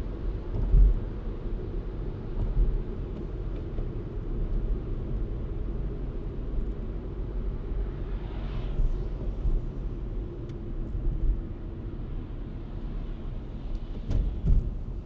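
A car being driven: a steady low rumble of engine and tyres on the road, with a passing whoosh about halfway through and a couple of brief thumps, one near the start and one near the end.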